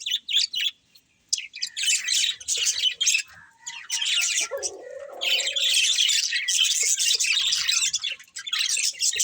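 Budgerigars chirping and chattering in rapid, high twitters, with a brief pause about a second in.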